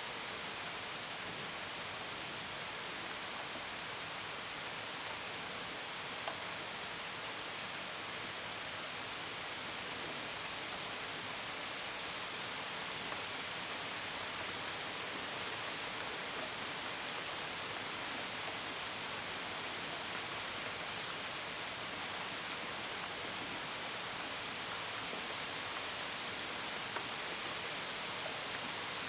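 Steady rain falling, with a few sharper drops ticking against a window or gutter. Crickets chirp faintly in a high, even pulse underneath.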